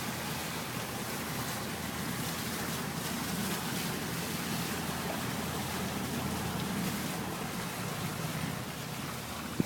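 A boat under way: a steady motor drone with the rush of water, and wind on the microphone. There is a single sharp knock right at the end.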